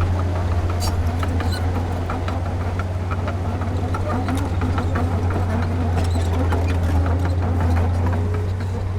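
Heavy diesel earthmoving machinery running steadily under a constant low engine drone, with frequent short metallic clanks and rattles throughout.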